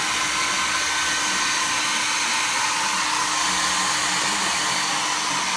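Handheld hair dryer blowing steadily, an even rushing hiss with a faint motor whine, aimed at a plate of cold food to warm it.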